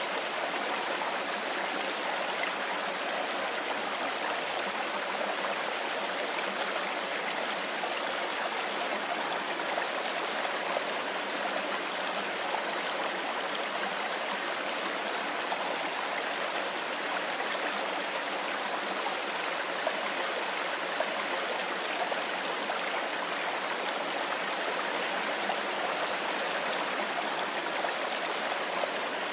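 Mountain river flowing over stones: a steady rushing and babbling of water, even throughout.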